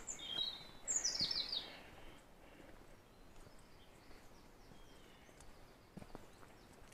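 A songbird singing: a quick run of high chirps falling in pitch in the first two seconds, then fainter calls. A few faint footsteps on a dirt path.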